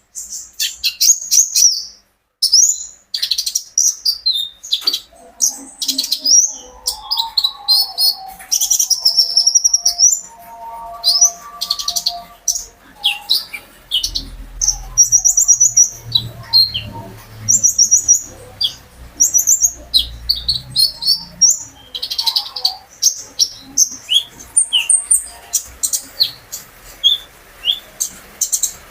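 A kolibri ninja (ruby-cheeked sunbird) singing a fast, busy song of high, sharp chirps and trills in quick runs, with short pauses between phrases.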